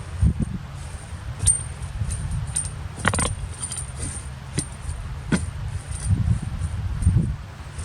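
BCS two-wheel walk-behind tractor running steadily while tilling, with frequent sharp metallic clinks and knocks as the tines hit stones in the soil.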